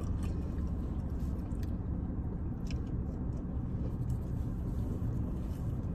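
Steady low rumble of a car cabin, with faint chewing and a few soft mouth clicks from people eating.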